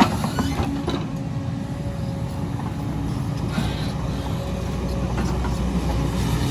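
Excavator's diesel engine running under load, a steady rumble with a held tone over it, with a sharp knock right at the start; the engine grows a little louder near the end.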